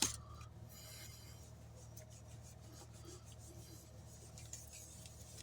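Ink blending brush being rubbed over cardstock: a faint, soft scrubbing, with one short tap right at the start.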